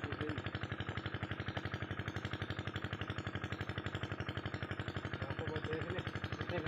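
Kirloskar 8 hp single-cylinder diesel pump-set engine running steadily, a rapid even chugging of about a dozen beats a second.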